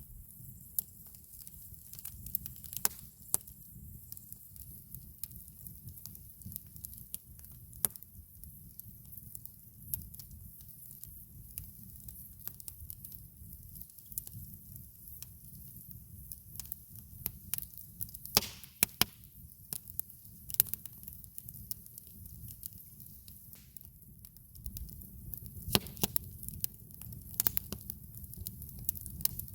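Campfire wood crackling and popping in irregular sharp snaps over a low steady rumble, with a few louder pops at about 18 to 20 seconds in and again near the end.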